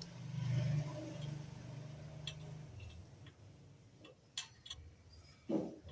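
A low steady hum for the first two or three seconds, then a few scattered small clicks and a short knock near the end, from handling the tubing and tools while flux paste is put on for brazing.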